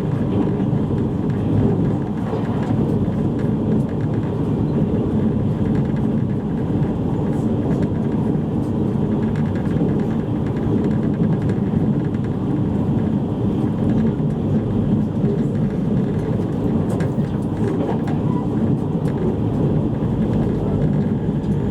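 Steady running rumble of a JR East E653 series electric train at speed, heard from inside the passenger car: wheels on the rails and the traction equipment underneath, with no clear breaks or changes.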